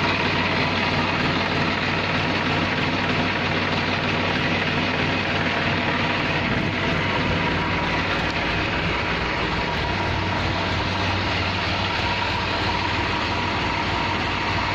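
Massey Ferguson 7250 tractor's diesel engine running steadily.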